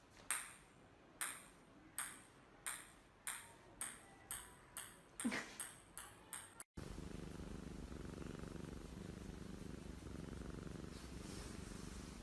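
A run of about a dozen sharp, ringing taps that come ever faster and fainter, in the pattern of a small hard ball bouncing to rest. After a sudden cut about two-thirds of the way in, a domestic cat purring steadily.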